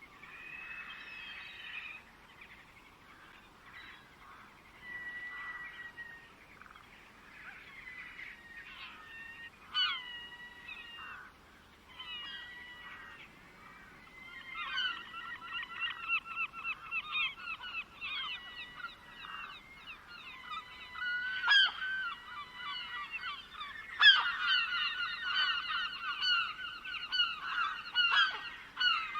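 Birds calling: scattered whistled calls and glides at first, then from about halfway a dense, louder chorus of repeated harsh calls.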